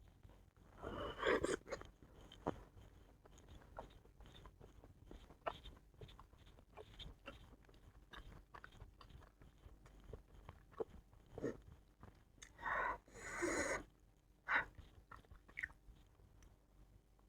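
Close-miked chewing and biting of food, many soft wet mouth sounds, with a few louder, longer eating sounds about a second in and again near the end.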